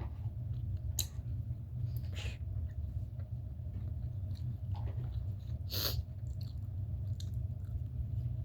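Close-up eating sounds of someone chewing egg: scattered wet lip smacks and mouth clicks, a sharper one about six seconds in, over a steady low hum.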